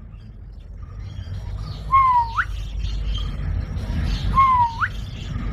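Parrot giving two whistled calls about two seconds apart, each dipping slightly in pitch and then sweeping sharply upward.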